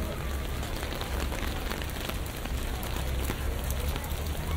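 Steady rainfall on a city street, with individual drops tapping sharply close by, over a low, steady traffic rumble.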